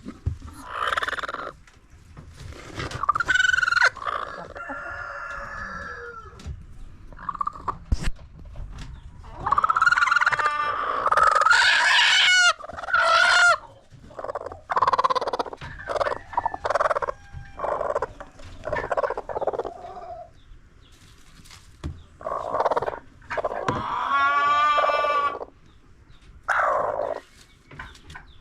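A flock of chickens calling, with clucks, squawks and several long rooster crows.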